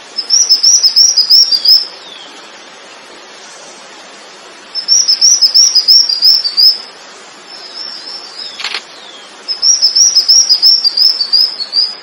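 A songbird singing three phrases of fast, evenly repeated high slurred notes, each phrase lasting about two seconds. Between the second and third phrases come a few softer notes and a single sharp click.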